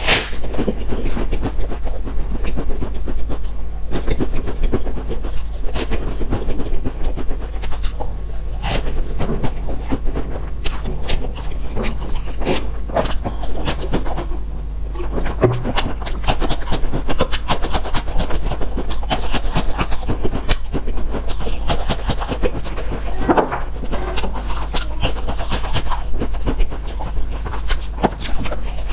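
Close-miked chewing and crunching of crisp rolled snack sticks, a dense run of crackles with breathing and mouth sounds, and gulps of a drink about halfway through. A steady low hum runs underneath.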